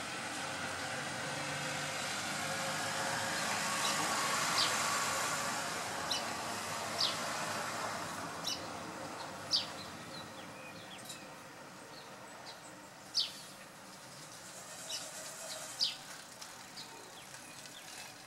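Short, sharp high bird chirps, about a dozen at irregular intervals, each a quick downward slide. Behind them is the steady hiss of road traffic, which swells about four seconds in and then fades away.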